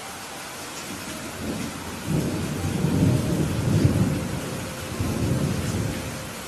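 Steady rain with a roll of thunder that builds about a second and a half in, rumbles loudest around the middle and dies away near the end.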